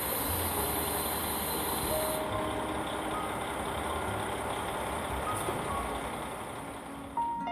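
Steady rumble of a train at a railway station, with a high hiss during the first two seconds and a few brief faint tones. Piano music comes in near the end.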